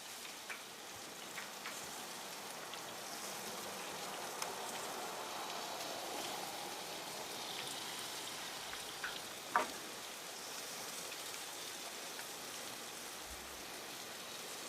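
Battered chicken frying in hot oil at about 350 degrees: a steady sizzle, with one short louder sound about ten seconds in.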